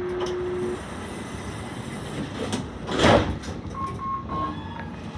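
Inside a Melbourne C Class tram standing at a stop, the doors are operating. A steady hum cuts off under a second in. About three seconds in a short, loud rush of door noise comes, followed by a brief steady beep.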